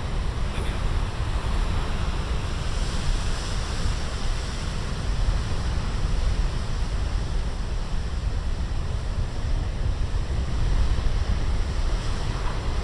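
Big ocean waves breaking on the shore in a steady low rumble and hiss of surf, with wind buffeting the microphone.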